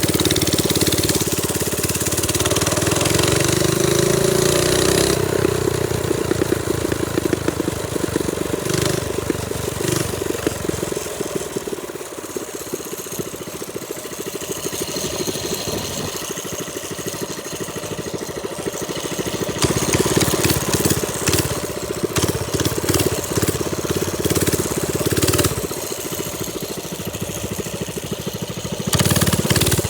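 Trailmaster Storm 200 minibike's small single-cylinder engine running while riding. It revs up in the first few seconds, eases off to a quieter stretch around the middle, and pulls harder again in the later part.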